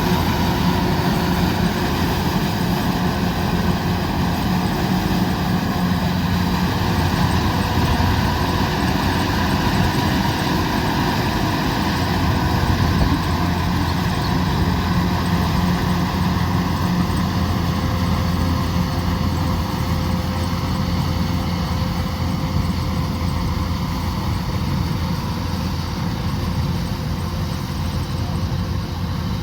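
Kubota combine harvester running steadily, a loud, even engine drone with a low hum and held mechanical tones.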